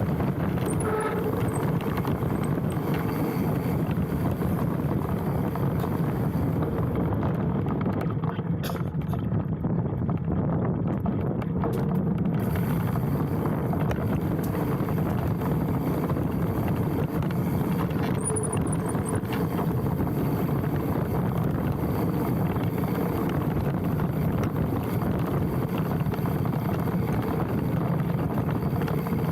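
Specialized Stumpjumper mountain bike riding downhill on a dirt trail: a steady rush of wind on the handlebar-mounted microphone with tyre and frame rattle over the ground. Short high brake squeals come about a second in and again about two-thirds of the way through.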